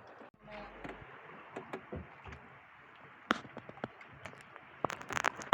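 Small fishing boat at sea: a steady wash of water noise with scattered knocks and clicks on the boat, a few sharper ones near the end.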